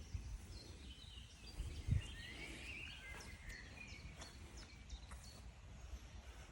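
Small birds chirping and warbling, busiest about two to three and a half seconds in, over a low outdoor rumble with a couple of low thumps near the start and about two seconds in.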